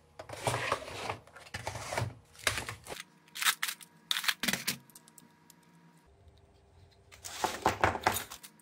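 Small metal DC gear motors clicking and rattling against each other and a metal tray as hands rummage through them, in bursts, with a quieter spell in the middle and a loud flurry near the end.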